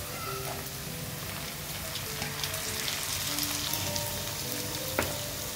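Chopped tomatoes going into hot oil with frying onions in a frying pan, sizzling and crackling steadily. The crackle grows stronger about two seconds in.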